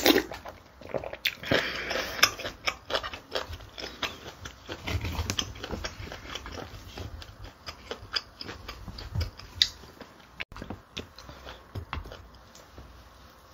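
Close-miked chewing and biting of a mouthful of bibimbap: rice mixed with seasoned vegetables and gochujang. It comes as many short, irregular crackles and clicks, loudest right at the start as the spoonful goes in.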